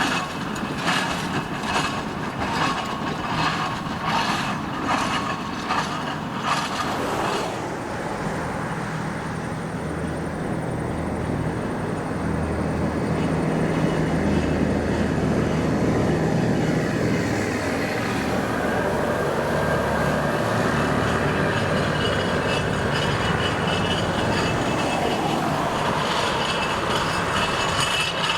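Steam traction engine running on the road, with an even beat of about two strokes a second for the first several seconds, then a steadier running noise with a low drone.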